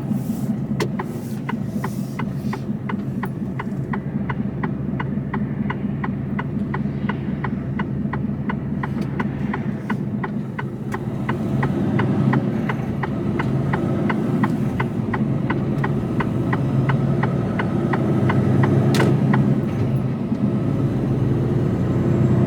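Mercedes Actros truck engine running steadily, heard from inside the cab, with the indicator ticking evenly at about three ticks a second; the ticking stops about three-quarters of the way through, followed by one sharper click.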